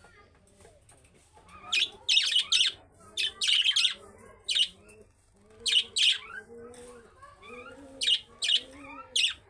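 Budgerigars chirping, in loud clusters of sharp, high chirps that start about two seconds in and recur irregularly, over softer lower warbling.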